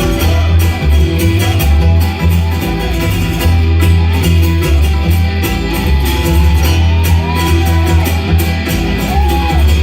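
Bluegrass band playing, led by acoustic guitar over a strong steady bass line.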